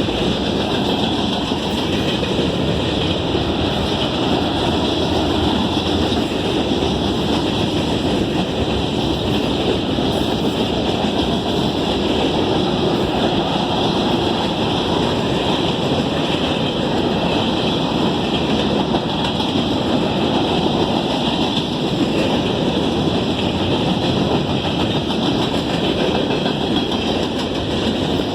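Freight train rolling past: a steady, continuous rumble and rush of wheels on rail.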